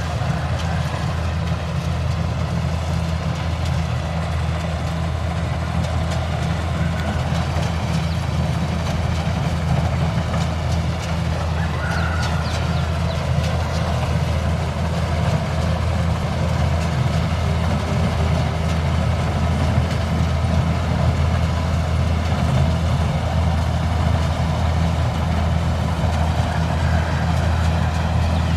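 Kubota combine harvester's diesel engine running steadily with a continuous low drone.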